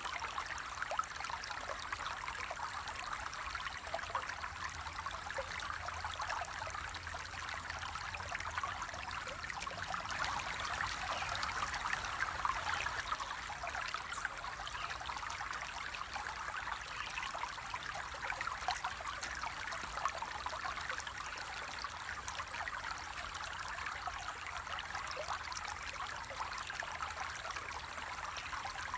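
Flowing water trickling steadily, with many small splashes and no big roar.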